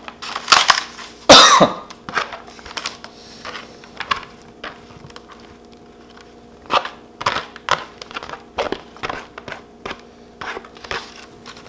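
Cutlery clicking and scraping against takeout containers and a plate as breakfast food is moved onto one plate, in a run of short, irregular clinks and scrapes. A louder, harsh burst comes about a second in.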